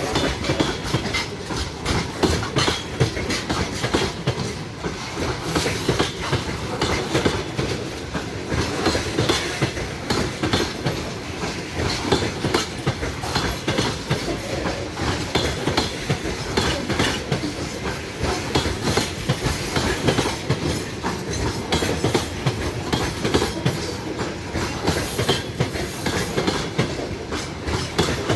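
A train's wagons running past at steady speed, wheels clacking continuously over the rail joints above a steady rumble.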